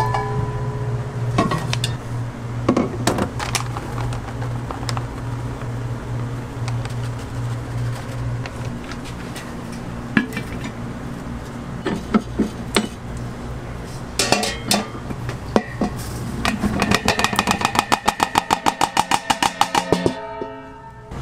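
Food-stall kitchen work: a steady low hum with scattered clinks and knocks. Near the end comes a fast, even rattle of about ten clicks a second that lasts some three seconds and stops abruptly.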